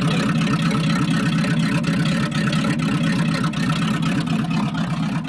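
Carbureted 1979 Chevrolet 350 small-block V8 idling steadily, still cold after its first start in years.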